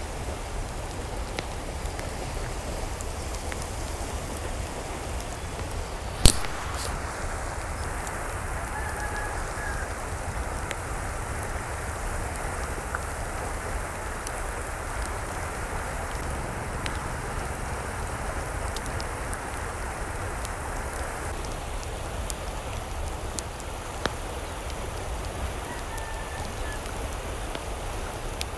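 Steady rain falling, with scattered drips and one sharp knock about six seconds in. Faint short animal calls come through twice, near the middle and near the end.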